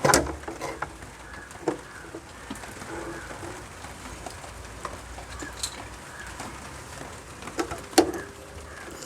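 Scattered knocks and clicks from tools and parts being handled during electrical repair work, with a sharp knock at the start and another about eight seconds in.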